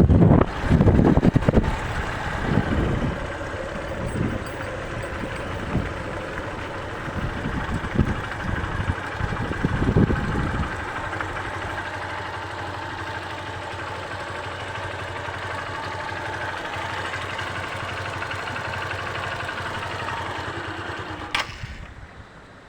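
Heavy rain falling steadily, with wind buffeting the microphone for the first half. A single sharp click shortly before the end.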